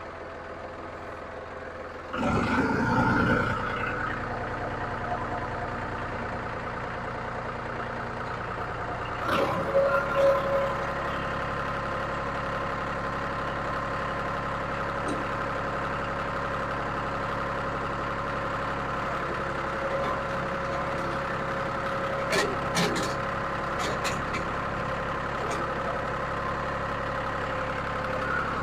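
John Deere 5303 tractor's three-cylinder diesel engine running steadily; about two seconds in it gets louder and stays up. A few short knocks and clatters come over it around ten seconds and again later on.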